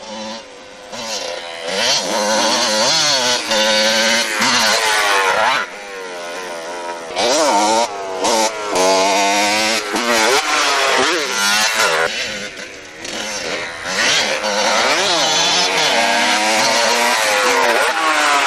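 Motorcycle engines revving hard, their pitch repeatedly climbing and dropping, in several loud stretches with short lulls between.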